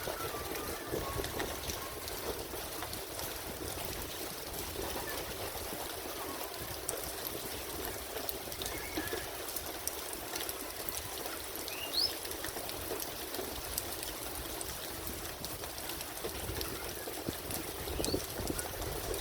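Steady rain falling, with water trickling and many small drop ticks. A bird gives a short rising call about twelve seconds in, after a few faint chirps.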